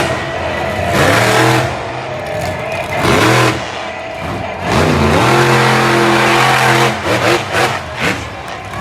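Monster truck engine revving hard, climbing and dropping in pitch several times, then held at high revs for about two seconds before falling off and blipping again.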